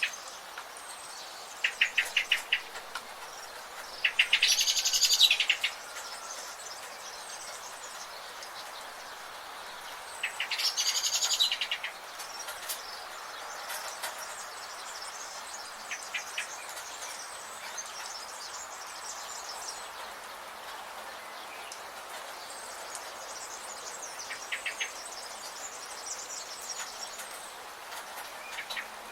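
Rainforest birds singing: two loud, high song phrases of about a second and a half each, around four and ten seconds in, and a few short rapid trills, over a steady background hiss.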